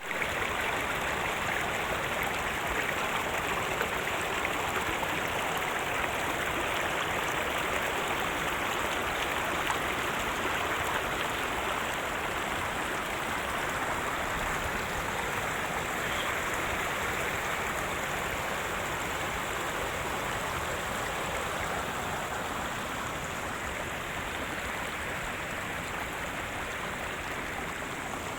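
Steady rush of running water, like a stream flowing over rocks.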